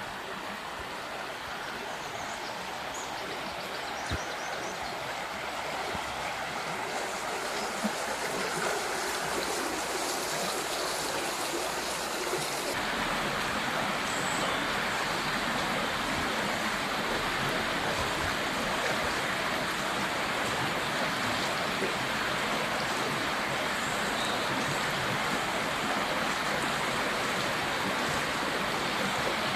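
River water rushing steadily. It grows louder over the first several seconds and turns fuller and brighter about thirteen seconds in.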